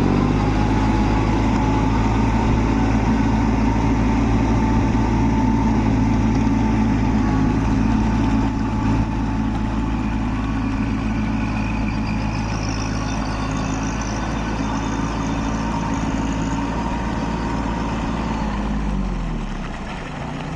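Small Kubota tractor's diesel engine running at a steady speed; near the end the revs drop and it gets a little quieter.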